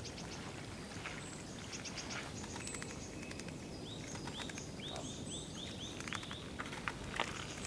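Wild birds calling over steady background noise. Thin high ticks come scattered through, and about four seconds in a quick run of some seven short arched whistled notes follows.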